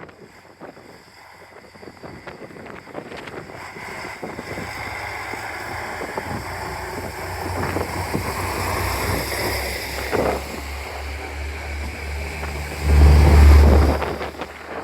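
Diesel railcar engine and running noise growing louder over several seconds as the train moves at the platform, with a deep low rumble. It swells to its loudest burst a second or so before the end, then falls away.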